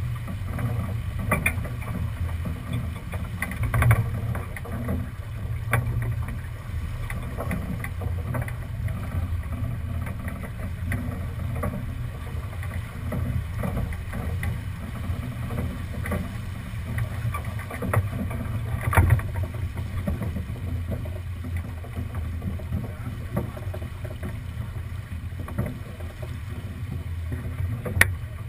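A sailing boat under way: a steady low rumble of wind and water, with occasional sharp knocks.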